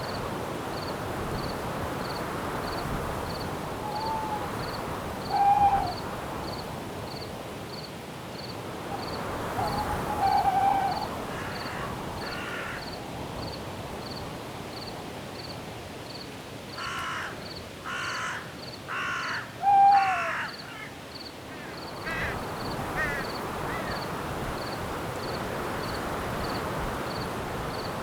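Crow cawing over a steady wind hiss: scattered single caws, then a run of four loud caws past the middle. A faint high cricket chirp repeats a little more than once a second underneath.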